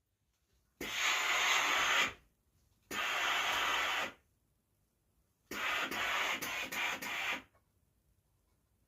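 Steam iron hissing out three bursts of steam, each about a second or two long with a sudden start and stop; the last burst flutters briefly near its end.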